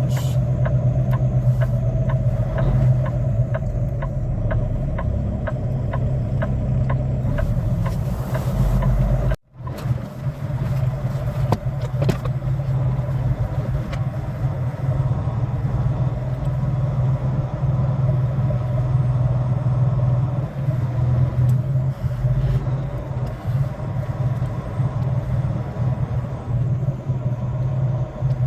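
Semi-truck's diesel engine running with a steady low hum, heard from inside the cab. For the first eight seconds or so there is a light, regular ticking of about two ticks a second, and the sound drops out briefly about nine seconds in.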